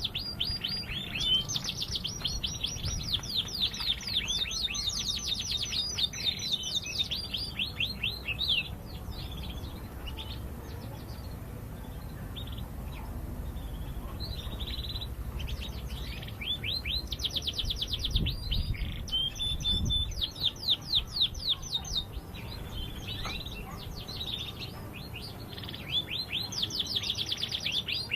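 Domestic canary singing: phrases of rapid trills of repeated high notes with some held whistled tones, broken by pauses of a few seconds.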